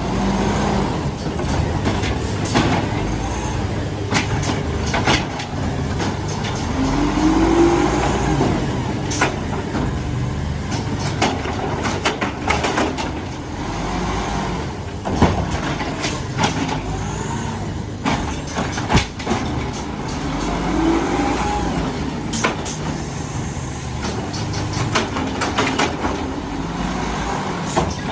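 Mack LR garbage truck with an Amrep automated side-loader body running on compressed natural gas, working its arm: the engine revs up and back down twice to drive the hydraulics, with repeated metallic clanks and knocks and hissing air brakes.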